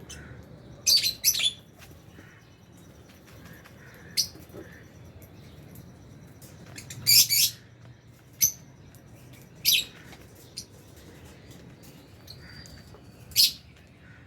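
Lovebirds giving short, shrill chirps, some singly and some in quick pairs, every second or few.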